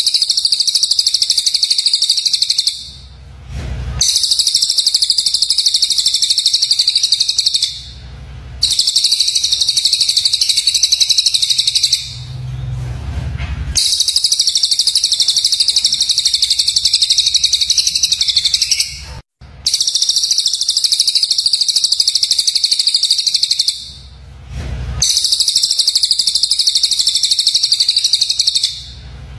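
Recorded songbird call used as a masteran (training loop for murai batu): bursts of rapid, harsh, high-pitched chattering "shots", each lasting three to five seconds, repeated six times with short pauses between.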